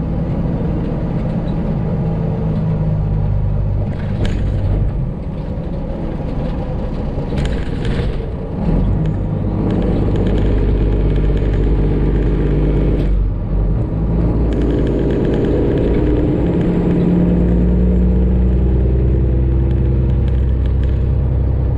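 Freightliner Classic XL semi truck's diesel engine running on the road, heard from inside the cab: a steady low drone whose pitch shifts a few times, with a brief dip about thirteen seconds in.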